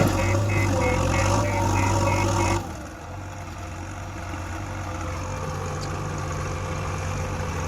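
Diesel engine of heavy farm and earth-moving machinery running steadily. About two and a half seconds in it drops sharply in level, then slowly builds again.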